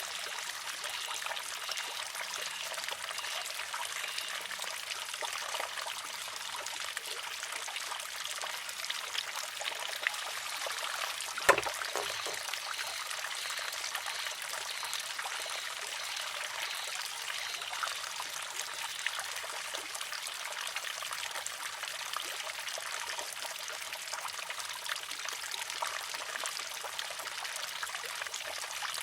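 Water trickling and pouring steadily through a wooden shishi-odoshi, with one sharp, hollow clack about eleven seconds in as the filled arm tips over and strikes its rock, ringing briefly.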